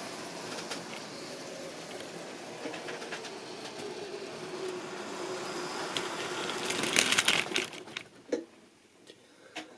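Model railway train running on the track: a steady motor hum under wheel rattle that builds to a loud burst of clicking and clattering about seven seconds in as it passes close, then drops away quickly to a few faint clicks.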